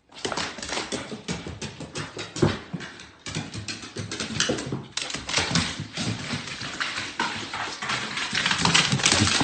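A dog making noise over a dense, irregular run of clicking and scratching sounds.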